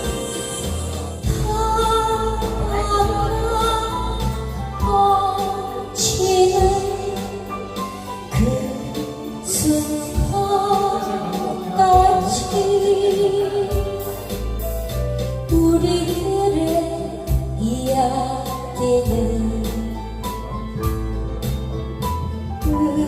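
A woman singing a slow melody with vibrato over an instrumental backing with a steady bass line.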